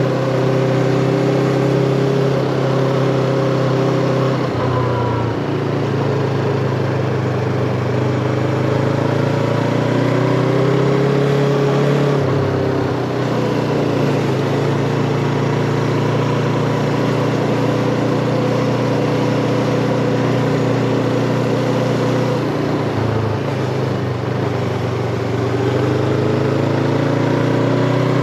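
Yamaha MT-25 parallel-twin engine running while riding, its note steady and dropping in pitch three times.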